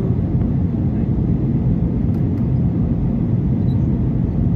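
Steady low engine rumble that holds even throughout, with no rise or fall in pitch.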